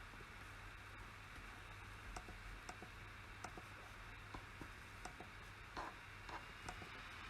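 Scattered single clicks at a computer, about one or two a second, starting about two seconds in, over a faint steady hum and hiss.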